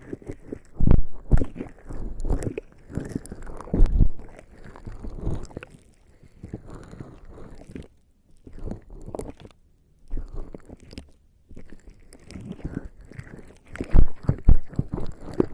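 Bare skin coated in lubricating jelly rubbing and pressing on a binaural microphone's ears close up, in irregular strokes with muffled thuds. Two short pauses come around the middle, and a run of louder strokes comes near the end.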